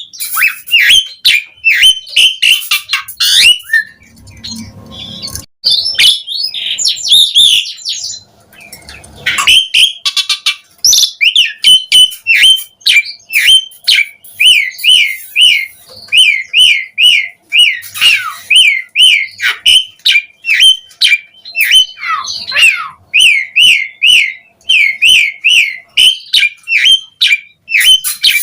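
Asian pied starling singing: a stretch of varied, scratchy chattering, then a long run of repeated whistled notes that each slide in pitch, several a second.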